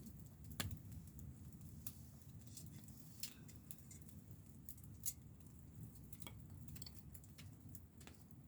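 Wood campfire crackling quietly: irregular sharp pops and snaps, about six of them, over a low steady rumble.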